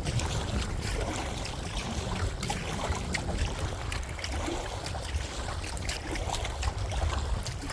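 Wind buffeting the microphone in a steady low rumble, over the light splashing and dripping of kayak paddle strokes in shallow water.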